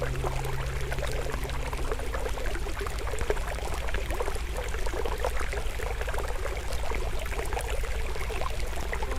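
Wood fire crackling with many small snaps over the steady flow of a forest stream. Soft held music notes fade out in the first two seconds or so.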